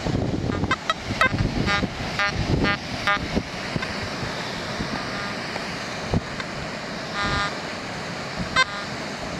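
XP Deus metal detector beeping as its coil sweeps over an iron target: several quick short beeps in the first three seconds, a longer beep about seven seconds in and a short one near the end. The signal marks iron, not a coin.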